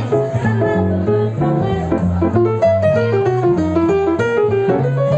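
Small jazz band playing a swing tune, with bass notes stepping along under a moving melody line and chords.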